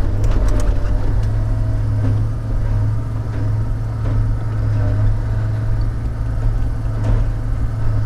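Log loader's engine running steadily with a constant low hum, with a few light knocks about half a second in and again around seven seconds.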